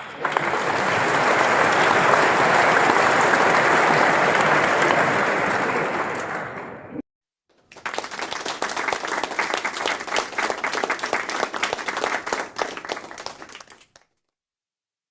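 Two takes of crowd applause one after the other. The first is a dense, even wash of clapping that tapers off and cuts out about halfway through. After a short silence, a second round starts with individual claps standing out; it fades and stops about a second before the end.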